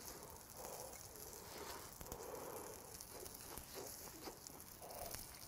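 Faint chewing and mouth sounds of a person eating grilled beef intestines, with soft breaths and a few small clicks.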